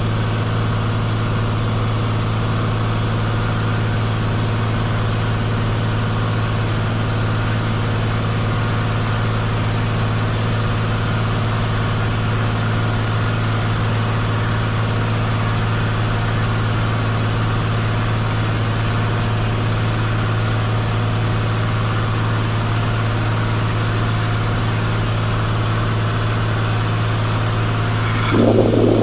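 Cessna 182 Skylane's piston engine and propeller droning steadily in cruise flight, one unchanging pitch throughout. A brief louder burst comes right at the end.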